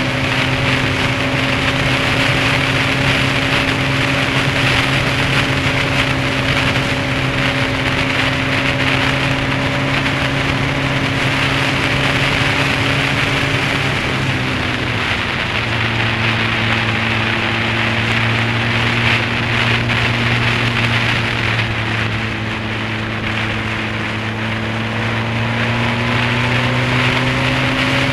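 Honda CBF600S inline-four motorcycle engine running at a steady pace, with a constant rush of wind and road noise. About halfway through, the engine note drops to a lower pitch, then it climbs again near the end.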